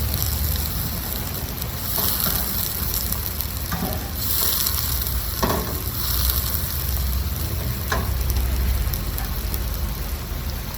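Onions frying in oil in a pan, a steady sizzle, with a few short scrapes or knocks of the spoon as they are stirred.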